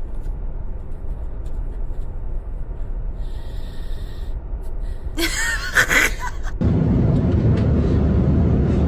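Steady low rumble of airliner cabin noise, with a brief high tone a little past three seconds in. A person gasps loudly at about five seconds, and just after the rumble suddenly gets louder.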